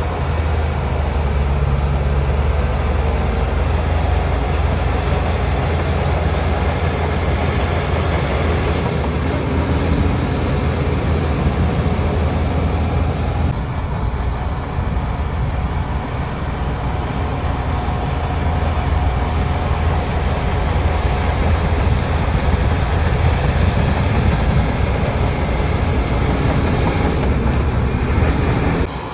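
Diesel engine of heavy earthmoving equipment, a bulldozer or dump truck, running steadily under load with a deep, continuous hum.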